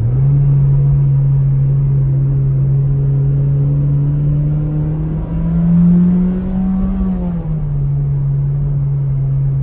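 Mitsubishi Lancer Ralliart's turbocharged 2.0-litre four-cylinder pulling the car along, a steady engine drone that climbs in pitch a little past halfway and drops back about two seconds later.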